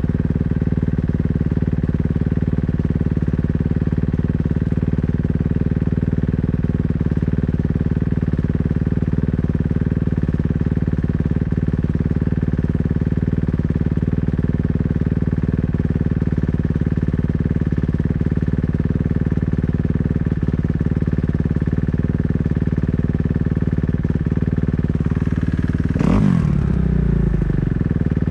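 Kawasaki KX250F dirt bike's single-cylinder four-stroke engine running steadily near idle, with a brief throttle blip near the end whose pitch jumps and falls back.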